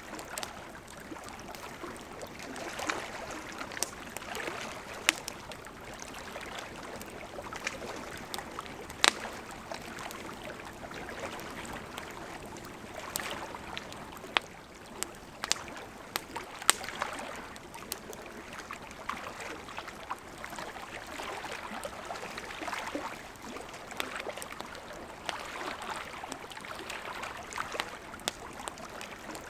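Wood campfire crackling, with sharp irregular pops, over the steady rush of a gently flowing river.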